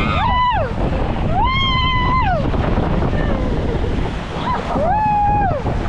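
A young child's high-pitched cries, three of them, each rising, held, then dropping away, over a steady rush of splashing water.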